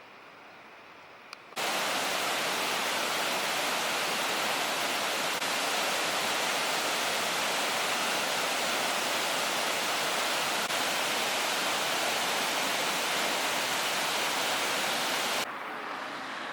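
Steady, loud rushing of water, like a waterfall or fast river, that cuts in abruptly about a second and a half in and drops away sharply near the end.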